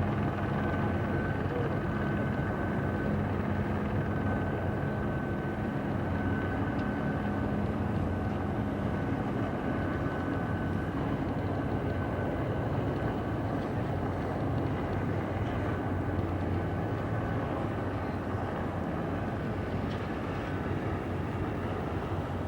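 A steady engine drone with a constant low hum and a faint high whine, holding evenly throughout.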